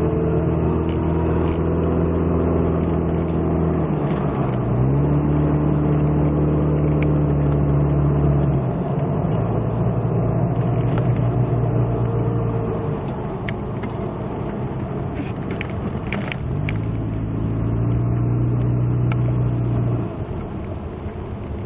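Car driving, with a steady road and engine noise and a low engine hum that drops and rises in pitch several times as the engine speed changes.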